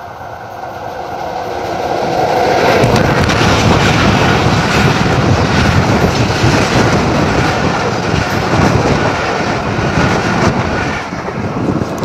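Broad-gauge diesel-hauled intercity passenger train passing close at speed. It grows louder over the first couple of seconds as the locomotive arrives, then the coaches run by in a sustained rush with wheels clacking over the rail joints, easing off near the end.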